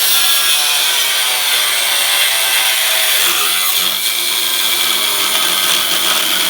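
Power cutting tool, most like an angle grinder with a cut-off wheel, cutting through a truck's frame steel: a loud, steady, high whine with a hiss of cutting.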